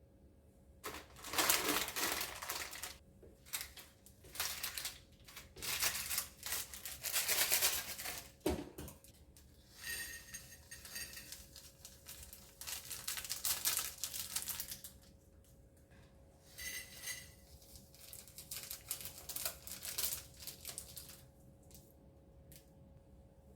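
Packaging crinkling and rustling in a series of irregular bursts, with a sharp knock about eight seconds in.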